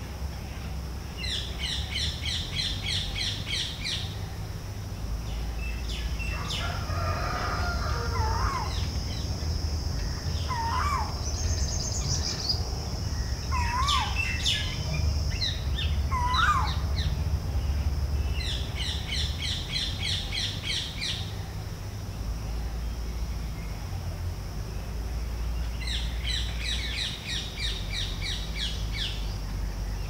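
Birds calling: three runs of fast repeated chirping notes, each a few seconds long, near the start, about twenty seconds in and near the end, with scattered short whistled calls between them, over a steady high hiss and a low rumble.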